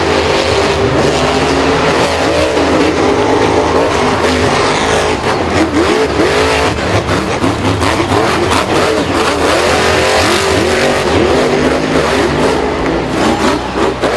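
Vehicle engines revving hard and continuously, their pitch swinging up and down again and again.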